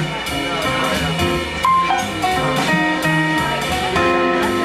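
Live jazz band playing, with a drum kit keeping time under pitched instruments.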